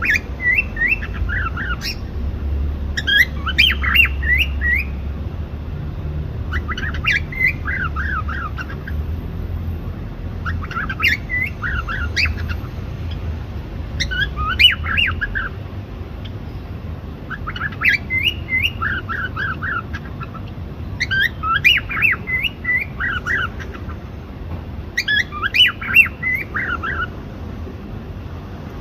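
Cockatiel calling in short, squawky bursts of quick up-and-down chirps, one burst about every three to four seconds, over a low steady hum.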